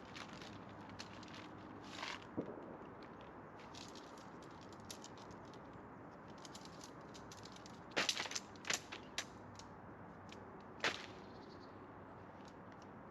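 Scattered sharp snaps and clicks over a steady low hiss, with a quick cluster of louder snaps about eight seconds in and another single snap near eleven seconds.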